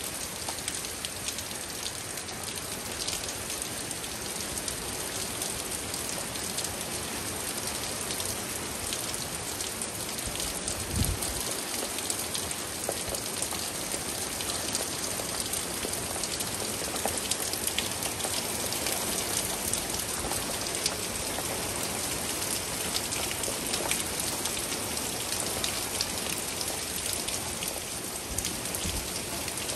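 Steady rain falling, with many separate drops ticking on surfaces during a thunderstorm. There is one brief low thump about eleven seconds in.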